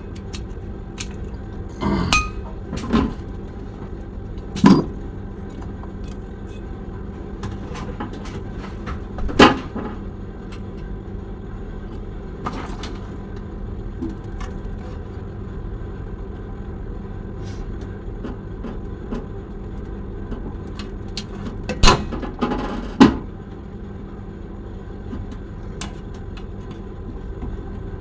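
Sharp metal knocks and clinks from hand tools working on a refrigerator compressor's pipework, a handful spread across the stretch, over a steady low hum.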